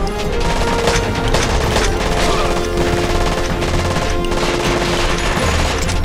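Rapid, dense gunfire in a TV action fight scene, with a steady music score underneath.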